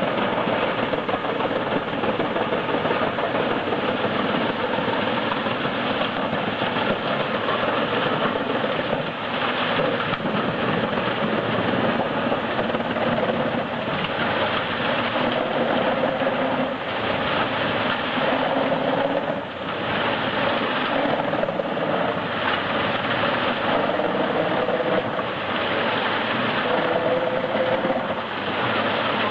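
Heizohack HM 8-500K wood chipper running steadily under load, its engine and spinning drum chipping frozen logs, with small rises and dips in the noise.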